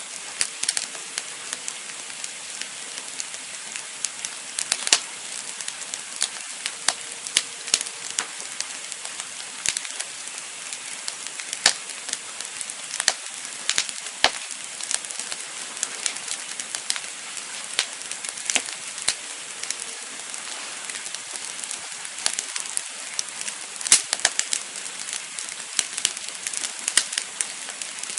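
Campfire burning: wood crackling and popping at irregular intervals over a steady hiss.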